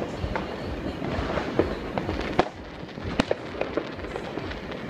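Fireworks and firecrackers going off all around: a string of sharp bangs at irregular intervals over a steady crackle, the loudest a little after three seconds in.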